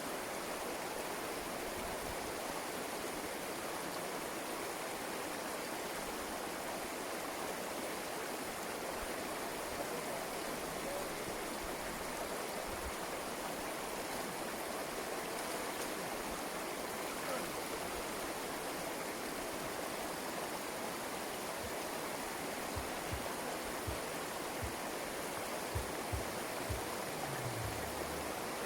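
Rain-swollen creek rushing steadily past, a continuous even rush of flowing water. A few faint low knocks come near the end.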